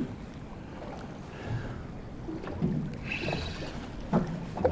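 Water slapping against a small boat's hull as it drifts, with a few short knocks.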